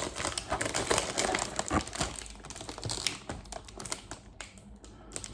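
Crinkling plastic bags and small irregular plastic clicks as the bagged runners of a Gundam model kit are handled, busiest in the first few seconds and then thinning out.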